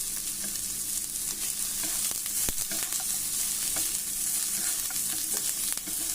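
Onion, whole spices and coriander leaves sizzling in hot oil in a pan while being stirred, with scattered spatters and clicks and one sharp knock of the spoon against the pan about two and a half seconds in.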